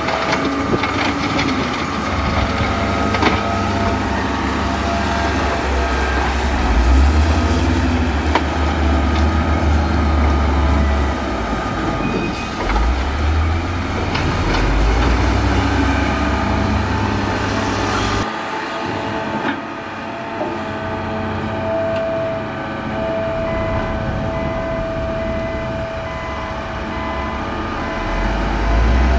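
Bulldozer's diesel engine running under load, with the clatter of its steel tracks. The deep engine rumble swells and eases in pushes, then drops away sharply about eighteen seconds in, leaving steadier higher machine tones.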